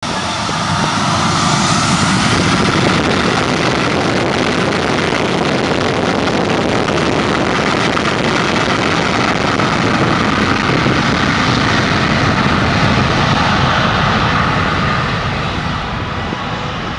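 Boeing 737's turbofan engines at takeoff thrust: a loud, steady jet roar that fades over the last couple of seconds.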